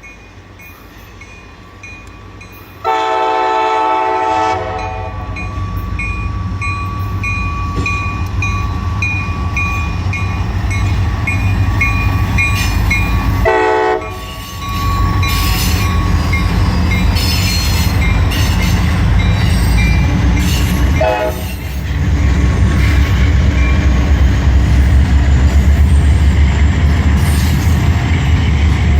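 Diesel locomotive air horn on a departing CSX intermodal train: a long chord blast about three seconds in, a shorter one near the middle and a brief, weaker one later. A steady ding repeats about twice a second through the first half. The locomotives' diesel engines make a low rumble that grows louder in the last third as the train pulls out.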